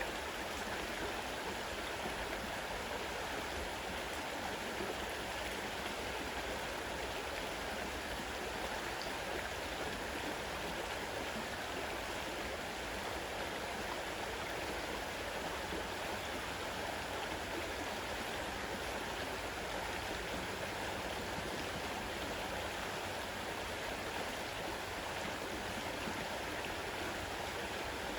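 Fast-running river water rushing steadily over rocks.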